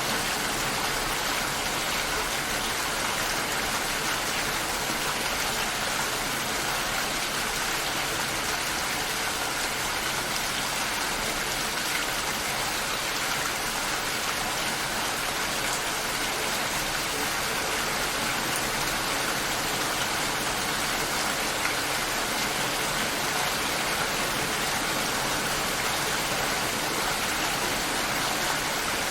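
Steady rain shower falling and pattering on surfaces, an even hiss of rain with faint scattered drop ticks.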